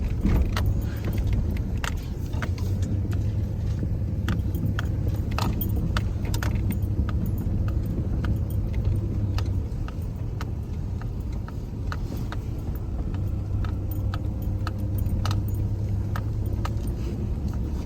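Camper truck driving, its engine and road noise a steady low rumble, with irregular small rattles and clicks throughout.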